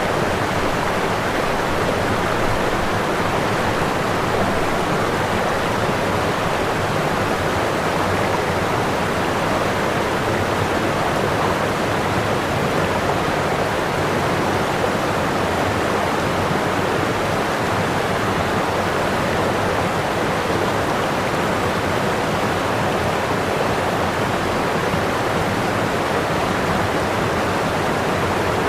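Whitewater pouring over a waterfall: a steady, unbroken rush of falling water.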